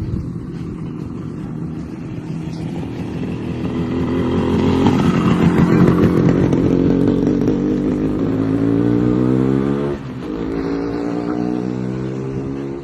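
Motorcycle engine running as the bike rides along, getting louder towards the middle, its pitch rising as it accelerates, then dropping suddenly about ten seconds in, as at a gear change, and running on steady.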